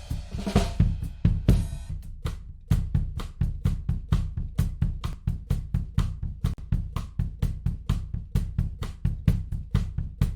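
Drum kit playing a steady, fast beat of kick, snare and cymbals, a recorded drum track run through a tape emulation plugin. A cymbal wash rings over the first two seconds before the tight hits carry on alone.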